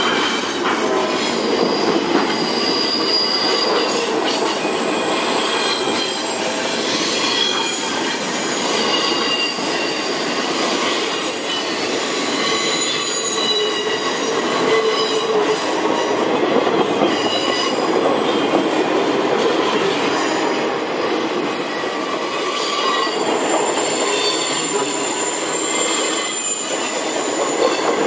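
Intermodal freight train's double-stack well cars rolling past: steel wheels on the rails make a steady rumble and clatter, with high-pitched wheel squeal that comes and goes on several pitches.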